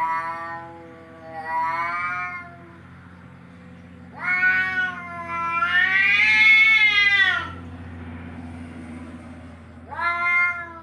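A cat meowing and yowling in five drawn-out calls, the longest one in the middle rising and then falling in pitch, over a steady low hum.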